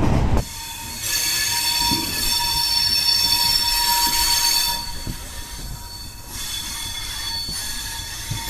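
Train wheels squealing: a steady high-pitched screech of several tones together, fading about five seconds in and coming back more faintly near the end.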